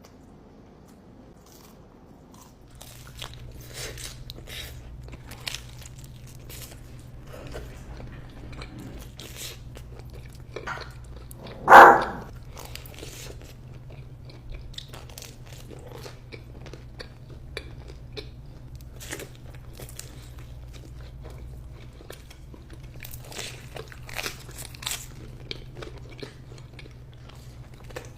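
Close-miked eating: a person biting into and chewing crunchy food, with many short crunches throughout. About twelve seconds in comes one much louder short sound, and a steady low hum starts about three seconds in.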